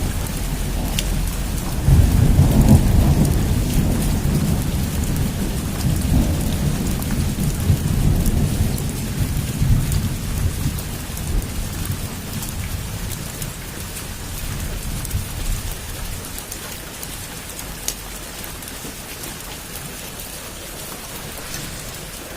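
Heavy rain falling steadily, with a roll of thunder that breaks in suddenly about two seconds in and rumbles on, fading away over the next dozen seconds until only the rain is left.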